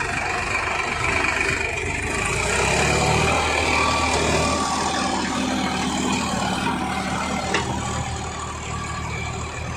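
A Kubota 55 HP tractor's diesel engine running steadily.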